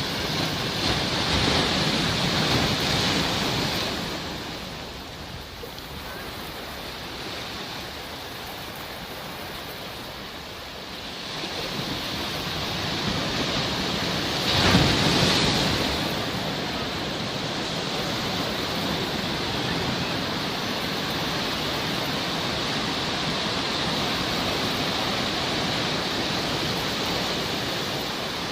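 Sea waves washing in and breaking, a steady rush that swells near the start and peaks with a larger wave about halfway through.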